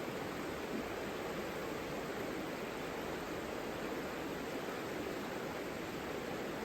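Savica river flowing: a steady, even rush of water with no breaks or changes.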